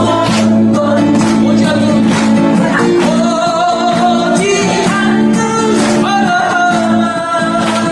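Acoustic guitar strummed in a steady rhythm, with singing in long held notes over it.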